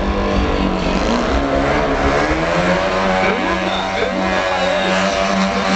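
Racing trucks' engines running loud and steady, their pitch rising a little from about two seconds in, with voices mixed in.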